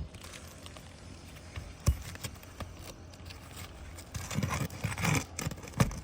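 Irregular knocks and scrapes on an asphalt shingle roof while a damaged shingle is being worked loose: a single sharp knock about two seconds in, then a scattered cluster of knocks and scrapes in the second half.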